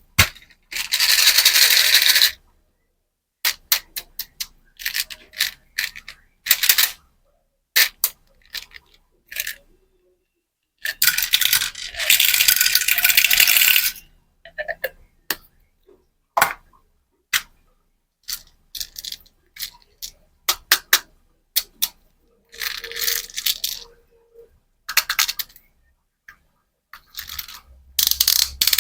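Small hard candies and their plastic packaging being handled: a run of sharp clicks and clinks, broken by longer rattling, rustling stretches, the longest from about eleven to fourteen seconds in.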